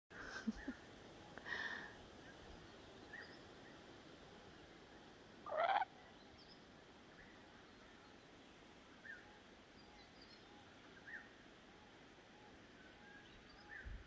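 Faint, scattered calls of small wild birds, with one louder short call about five and a half seconds in.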